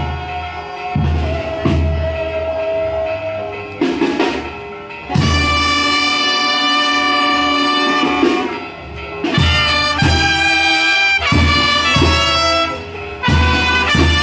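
Brass band playing: trumpets and trombones sounding held chords over a pulsing low bass line, with brief breaks between phrases.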